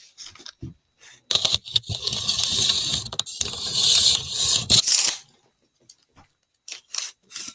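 Metal tape measure blade being drawn out, a run of rattling clicks lasting nearly four seconds, starting about a second in.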